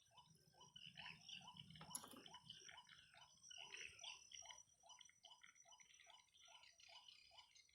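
White-breasted waterhen calls, faint: a steady run of short, evenly repeated notes, about three a second, with a brief knock about two seconds in.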